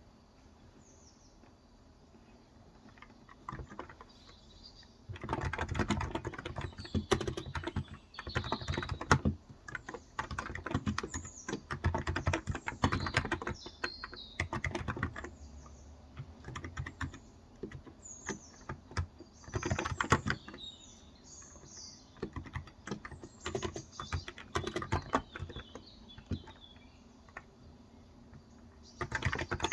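Typing in bursts on a Cox Endeavor tenkeyless keyboard with 35g electrostatic capacitive (contactless) switches, starting about five seconds in. Birds chirp in the background.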